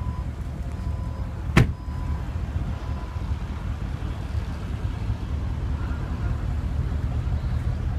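Porsche Panamera's tailgate latch releasing with a single sharp click about one and a half seconds in, over a steady low rumble.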